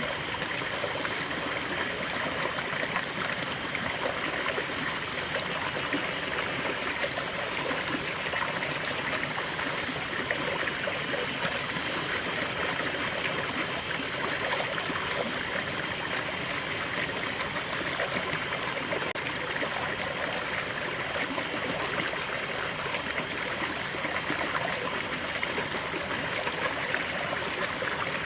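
Small forest waterfall and stream: water flowing and splashing over rocks in an even, unbroken rush.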